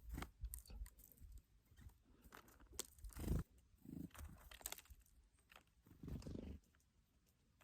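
Wind buffeting the microphone in low gusts, with scattered faint crunching and rustling clicks.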